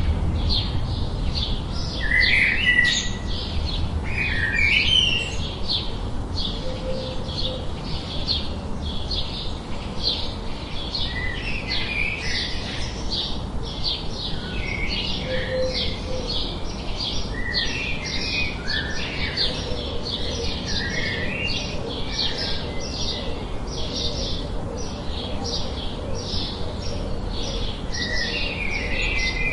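A flock of birds chirping: many short, rapid chirps overlapping without a break, with a few lower, longer calls in between, over a steady low background hiss.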